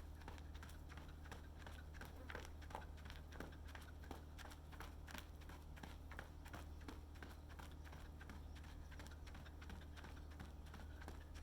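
Footfalls of a runner: quick, even taps that keep a steady running rhythm, over a constant low rumble.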